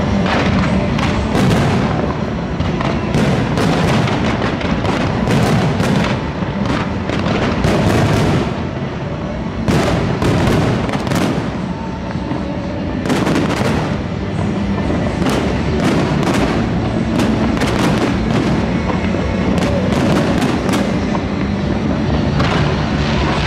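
Fireworks display going off in a rapid, near-continuous barrage of shell bursts and crackles, with the show's music playing underneath.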